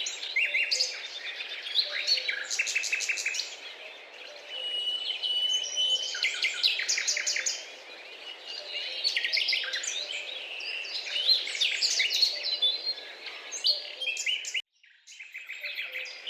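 A dense chorus of many birds chirping and trilling over one another, with rapid repeated notes. The sound cuts out abruptly for a moment about a second and a half before the end, then the chorus resumes.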